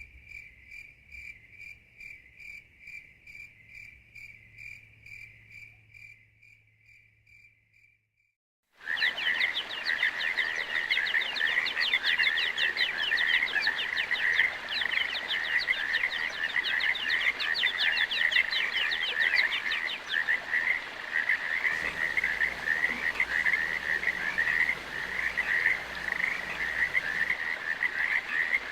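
A dense chorus of frogs calling, many rapid overlapping croaks, starting abruptly about nine seconds in. Before it, a faint, even chirp repeats about twice a second and fades out, followed by a short silence.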